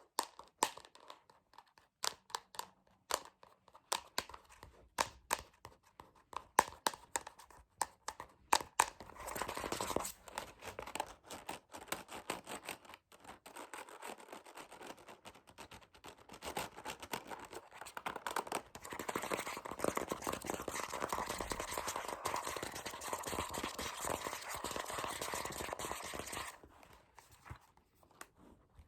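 Fast ASMR tapping on an object close to the microphone: rapid sharp taps for about the first nine seconds, then continuous fast scratching for about sixteen seconds, which stops shortly before the end.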